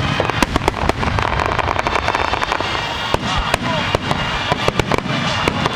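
Fireworks display: dense crackling with many sharp pops in quick succession over a continuous rumble, with music playing underneath.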